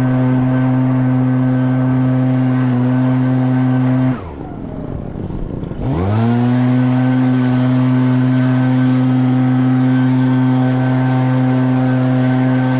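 Echo PB-9010T two-stroke backpack leaf blower running at full throttle with a steady high whine. About four seconds in the throttle is let off and the engine drops quickly toward idle, then about two seconds later it revs back up and runs on at full throttle.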